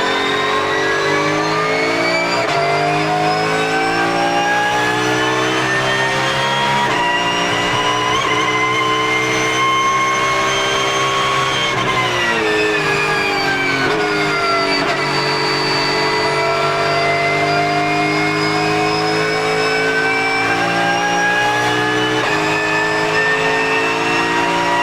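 Porsche GT3 Cup race car's naturally aspirated flat-six at full throttle with a high gear whine. The pitch climbs slowly, falls away for a few seconds about halfway, then climbs again.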